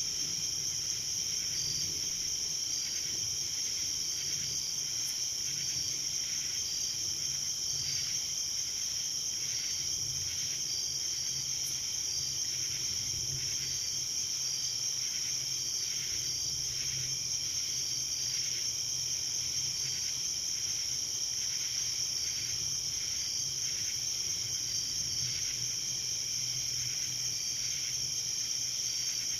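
Night insect chorus: crickets trilling steadily and high-pitched, with a fainter chirp repeating about once a second.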